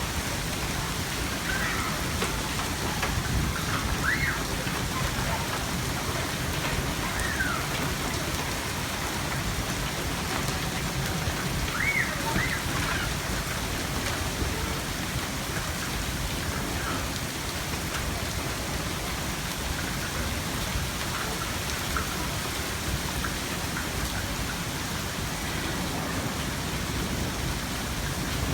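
Steady, heavy downpour from a hailstorm, falling evenly on surfaces with no let-up.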